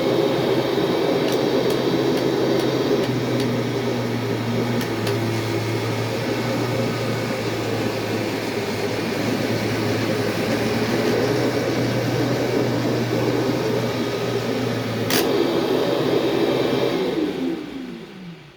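Kirby G4 direct-air upright vacuum running loud and steady as it picks up flour. There is a sharp click about fifteen seconds in. Near the end it is switched off and the motor winds down with falling pitch.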